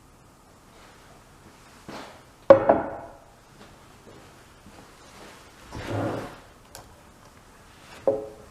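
A few separate hard knocks and clunks of wood being handled, the loudest a sharp knock about two and a half seconds in, with a softer, longer sound around six seconds and another knock near the end.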